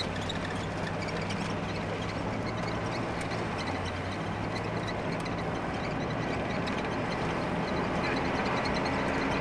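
Vehicle running at speed: a steady engine drone with a wash of wind and road noise, growing a little louder near the end.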